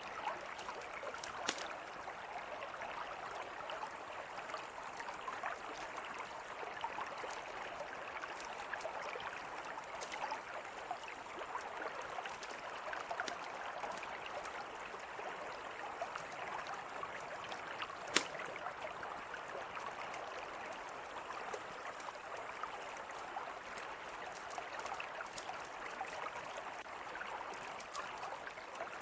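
Mountain river flowing steadily, with sharp campfire pops now and then, one louder pop a little past the middle.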